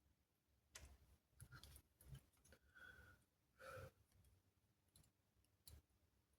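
Faint, scattered clicks and light taps of small tools and parts being handled at a workbench, with two brief high squeaks in the middle.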